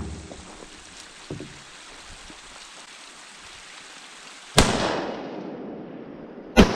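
Two rifle shots about two seconds apart, each sharp crack trailing off in a long rolling echo.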